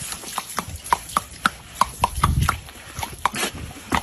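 A quick, irregular run of sharp taps or clicks, several a second, over a low rumble that grows louder about halfway through.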